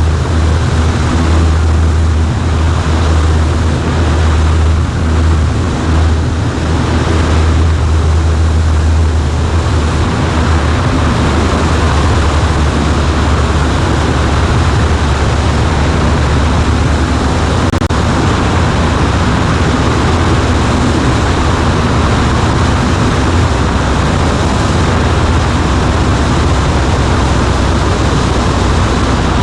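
A Cessna 140A's engine and propeller drone steadily in flight, a deep hum under a rushing of air. About ten seconds in, the low hum eases and the higher rushing grows stronger.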